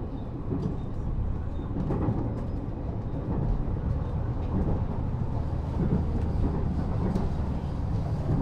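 Cabin sound of a Resort Shirakami train running along the rails: a steady low rumble with faint scattered clicks.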